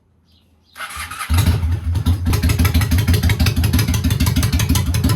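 Motorcycle engine being started: the starter turns it over briefly, the engine catches about a second in, and it settles into a steady idle with an even, rapid beat.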